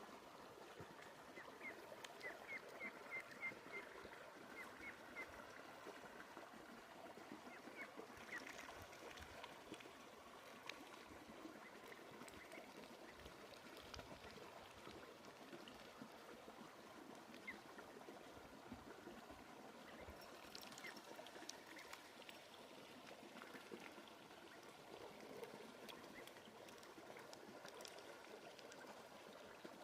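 Faint trickling of a small creek's overflow water, with ducklings peeping: a quick run of about a dozen short high peeps a couple of seconds in, then a few single peeps later.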